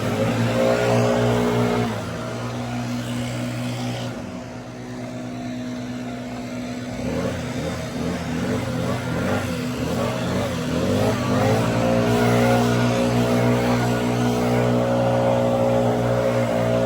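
An engine running steadily; its pitch wavers in the middle, then rises and holds steady and louder about eleven seconds in.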